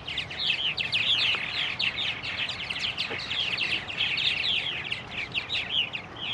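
Purple martins chirping in a dense, rapid chatter: many short, high, downward-sliding notes overlapping from several birds at once.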